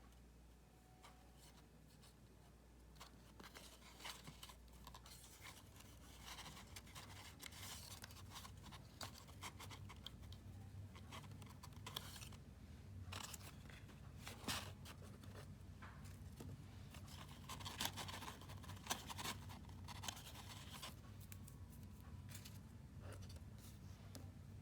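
Faint, scattered rustles, scrapes and clicks of cardstock and paper pieces being handled and worked by hand, over a low steady hum that comes in about five seconds in.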